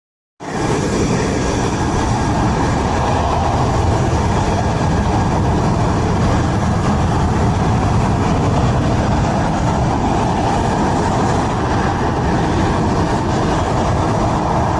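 Fighter jet engines running with a loud, steady roar, with faint steady whine tones above it.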